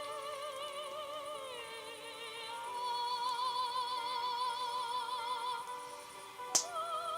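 Recording of a young girl's operatic singing: long held notes with wide vibrato over a steady accompaniment. A single sharp crack sounds near the end.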